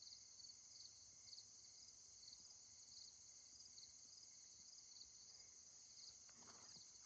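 Faint night chorus of crickets and other insects: a steady high trill with a regular chirp about twice a second.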